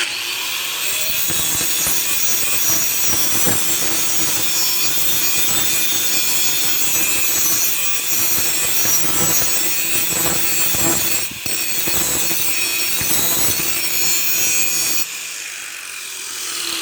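Power grinder grinding the steel of a saw-blade knife blank to shape it, a steady rasping grind that starts abruptly, breaks off for an instant about eleven seconds in, and stops near the end.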